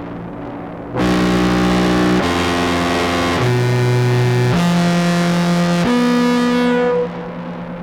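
Contrabass clarinet played through an octave pedal set two octaves down into a fuzz pedal: a phrase of five raspy held notes, each a second or so, stepping between pitches, with a reverb tail fading before the first note and after the last.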